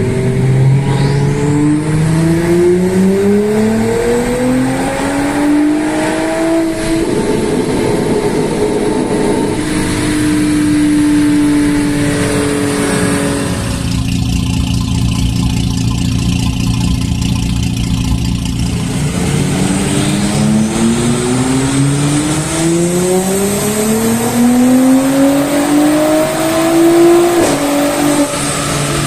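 Audi S5 B9's turbocharged 3.0 TFSI V6, fitted with an upgraded TTE710 turbo, accelerating hard under load in two long pulls, its pitch climbing steadily with a faint high whine rising alongside. Between the pulls it runs at a steadier speed, and the second pull cuts off sharply near the end.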